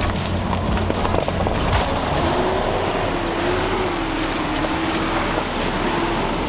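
Toyota Van Wagon 4x4 engine pulling under load as the van drives itself out of the rut where it was stuck, with a wavering engine note from about two seconds in.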